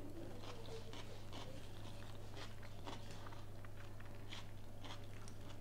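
A person chewing a mouthful of soft herring-and-beetroot salad close to the microphone: faint, irregular wet mouth clicks and smacks, over a low steady hum.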